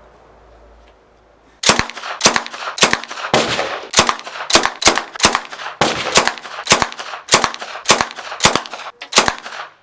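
Uzi submachine gun, locked to semi-auto, fired in a quick string of about fifteen shots, roughly two a second, starting a couple of seconds in, each shot a sharp crack with a short ringing echo.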